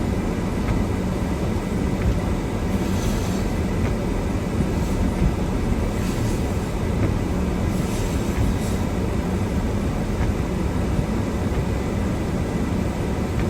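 Steady low rumble of strong storm wind against a car, heard from inside the cabin, with brief louder hiss about three seconds in and again around eight seconds.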